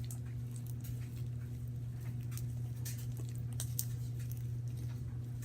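Sticky homemade slime being squeezed and kneaded by hand, giving irregular small wet clicks and pops, over a steady low hum.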